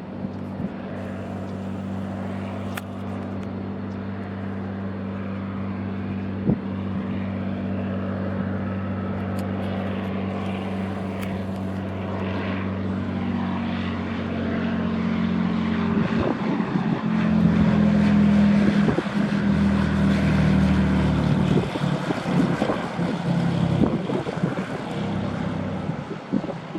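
Propeller airplane engine running, growing steadily louder to a peak a little past the middle, where its pitch drops as the plane goes by.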